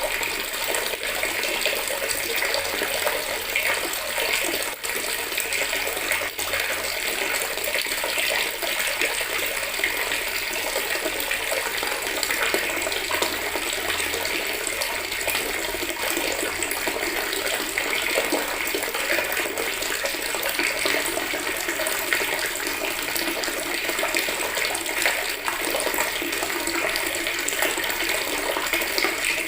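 Water running steadily from a tap into a plastic bucket, a continuous splashing stream.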